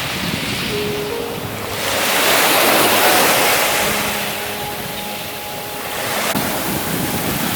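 Ocean surf washing onto a beach in slow swells, loudest about two to three seconds in and rising again near the end, with some wind on the microphone.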